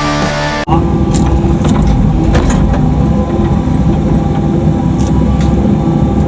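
Background rock music cuts off under a second in, giving way to a mini excavator's diesel engine running steadily, with a few faint clicks and knocks over it.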